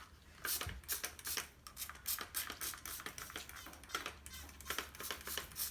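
Trigger spray bottle squirted again and again, quick hissy sprays with trigger clicks, about two or three a second.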